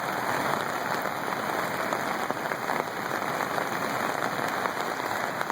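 Floodwater rushing steadily as the swollen river spills over a low island.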